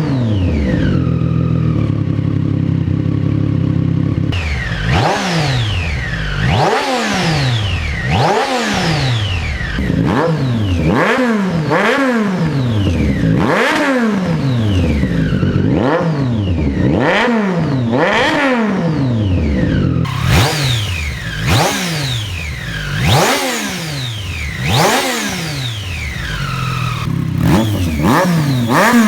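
Triumph Street Triple 765 RS inline three-cylinder engine heard through its exhaust, idling steadily for a few seconds, then blipped repeatedly with quick revs that rise and fall about once a second or so.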